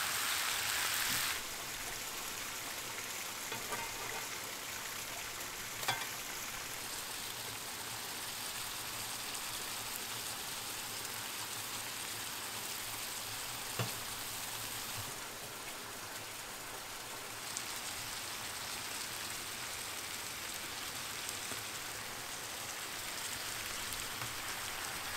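Food frying with a steady sizzle, louder for the first second or so, with a couple of brief sharp knocks, around six and fourteen seconds in.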